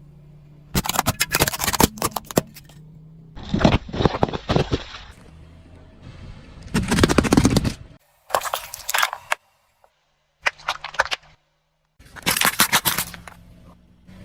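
Objects cracking and crunching as a car tyre crushes them, in about six separate bursts of rapid cracks with abrupt cuts and short silences between them.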